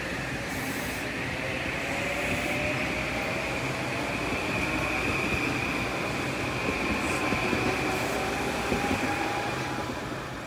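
Metro-North Kawasaki M8 electric multiple-unit train pulling away and gathering speed. Its wheels run on the rails under a motor whine that slowly rises in pitch. The sound fades near the end as the rear cab passes and the train moves off.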